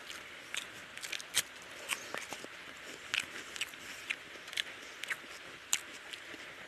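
Close eating sounds of a person chewing rice and curry eaten by hand, with irregular sharp wet clicks and crunches over a steady hiss.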